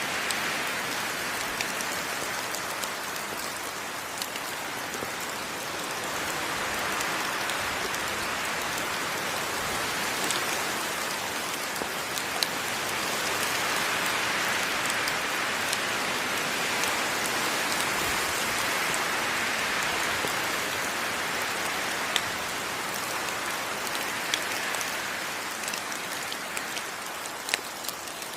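Steady heavy rain falling on rainforest foliage, a dense hiss that slowly swells and eases, with scattered individual drops striking close by.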